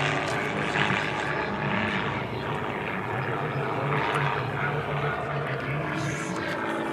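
Rebel 300 aerobatic plane's piston engine and propeller running at display power, the engine note wavering up and down in pitch as the aircraft manoeuvres.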